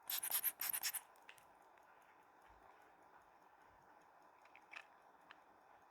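Hand air blower squeezed in quick puffs, about five short hisses of air in the first second, blowing dust off a watch movement. A few faint small clicks follow near the end.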